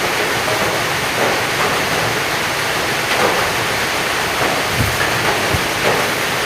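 Heavy rain pouring steadily, with scattered louder drops and splats through it.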